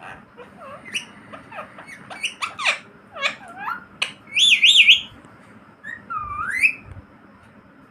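Pet parrots chirping and whistling: a string of short chirps that slide up and down in pitch, a loud warbling whistle a little past the middle, and a long rising whistle near the end.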